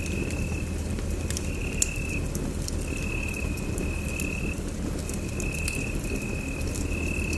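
Wood fire burning in a fireplace: a steady low rumble with scattered crackles and sharp pops, the loudest pop just under two seconds in. A thin high whistle-like tone comes and goes in short stretches throughout.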